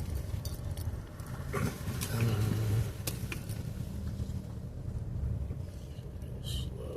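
A car engine running at low speed with a steady low rumble, with a few small clicks and rattles over it.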